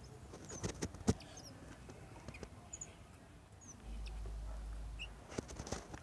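Young cage birds giving short, thin, high chirps several times, mixed with scattered sharp clicks and taps from the bamboo cage as food is pushed through the bars.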